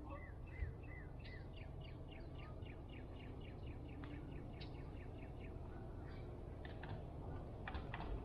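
Songbird singing a long run of quick, repeated downward-sliding notes, about five a second, followed by a few separate short chirps, over a steady low background rumble. A brief low thump sounds about half a second in.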